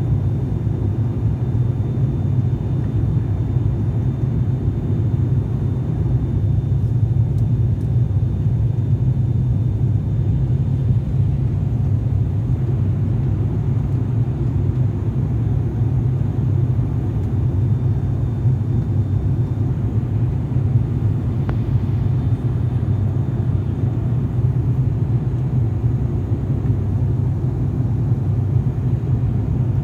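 Steady, loud low drone of a turboprop airliner's engines and propellers heard inside the passenger cabin in flight, with a faint high whine that fades about twenty seconds in.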